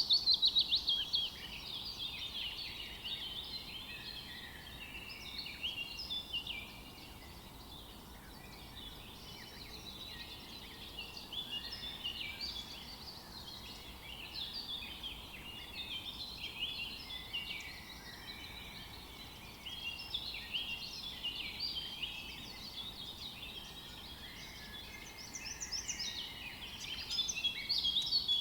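A chorus of many songbirds singing and chirping over one another, a steady tangle of quick high notes. It opens with a loud rapid trill falling in pitch, and swells again near the end.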